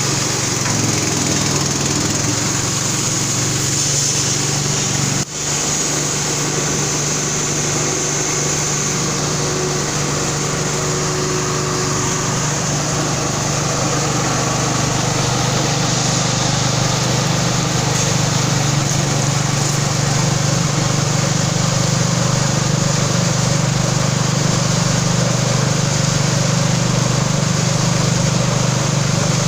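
A motor-driven ginger processing machine running steadily, with a low hum under a hiss. The sound breaks off for a moment about five seconds in, then carries on.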